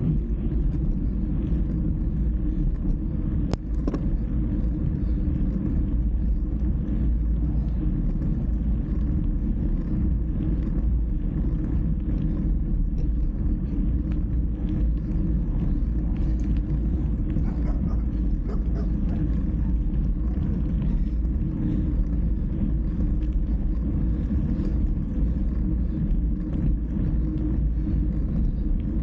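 Steady low rumble of wind and road noise from a moving bike ride, with one short click about three and a half seconds in.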